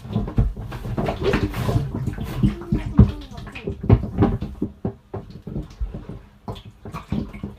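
Muffled irregular knocks and bumps, with water sloshing, heard from inside a kayak's storage compartment while the kayak is being paddled.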